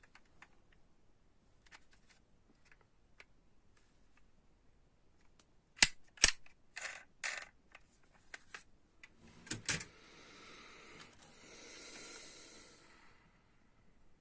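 Hands handling small toy cars and their plastic packaging: faint ticks, then a few sharp clicks and snaps about six and nine and a half seconds in, followed by a soft rustle lasting a few seconds.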